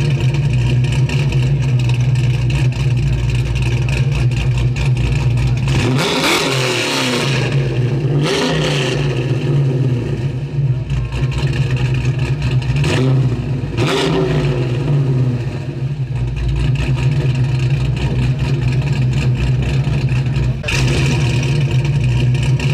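Car engine rumbling steadily with a deep low note, swelling several times as it is revved, the pitch rising and falling in sweeps.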